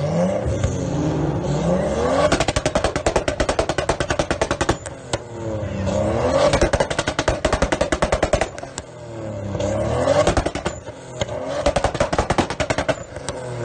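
Car engine revved hard about four times, each time climbing in pitch and then stuttering rapidly against the rev limiter before the revs drop away.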